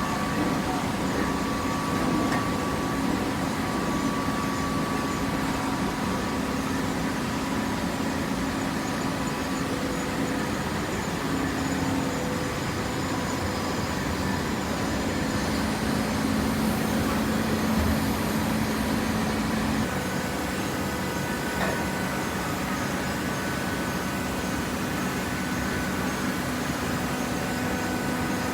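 Hydraulic vertical baler running: its pump motor gives a steady low hum over a broad machinery noise, and the hum shifts in pitch about twenty seconds in.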